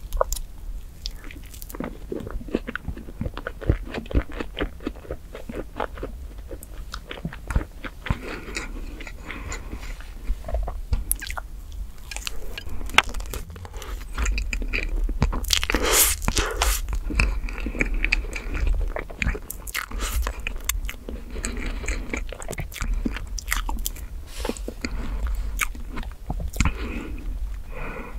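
Close-miked chewing of chocolate whipped-cream cake: many small wet clicks and mouth sounds, louder for a few seconds around the middle.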